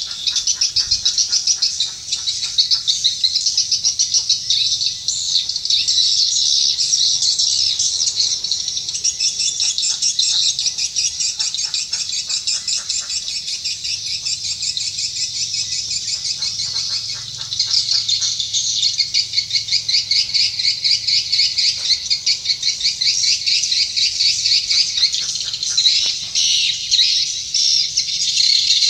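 Swiftlets twittering: a dense, unbroken chatter of rapid chirping trills.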